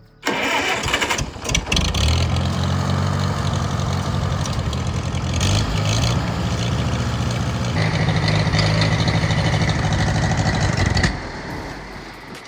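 Old Farmall tractor engine starting up and running steadily, with a noisy burst first and the engine note settling in after about two seconds. The level falls away about eleven seconds in.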